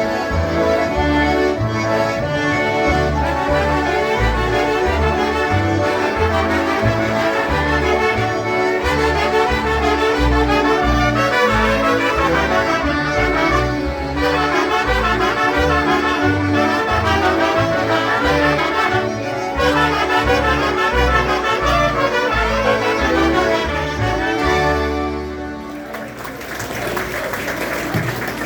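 Live polka band playing: concertinas with a horn section of trumpets and trombones over a regular bass beat. The tune ends a couple of seconds before the close and gives way to crowd noise.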